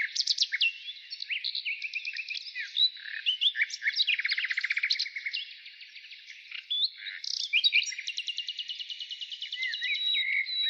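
Several wild birds calling and singing at once: overlapping chirps, short whistles and rapid trills, with a long fast trill in the second half and a held whistle near the end.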